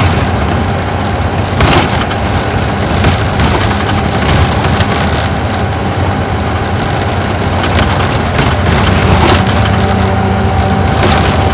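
Isuzu Gala coach's V-type diesel engine running under way, heard from inside the cabin as a steady hum over road noise. Several sharp knocks and rattles cut through, the loudest about two seconds in and again near nine seconds.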